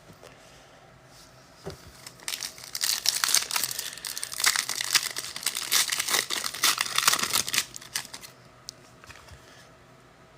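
A foil trading-card pack wrapper being torn open and crinkled by hand, a dense crackling rustle that starts about two seconds in and dies away near the eighth second.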